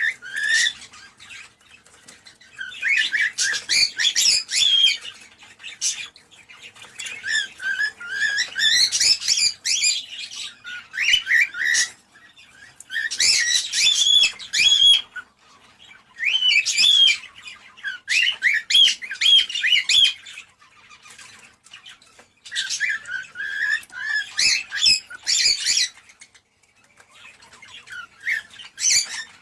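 Cockatiels chirping and warbling in bouts of two to three seconds, separated by short pauses: the chatter that is played to stimulate cockatiels to breed.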